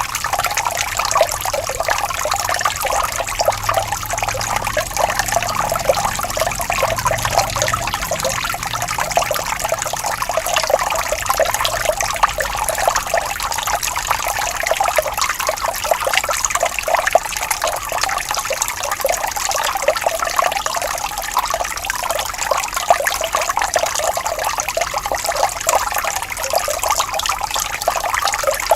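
Water flowing and trickling steadily, with a continuous splashing babble of many small splashes and gurgles.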